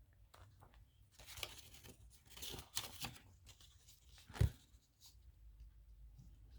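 Faint rustling and tearing of paper cut-outs being handled, with one short knock about four and a half seconds in.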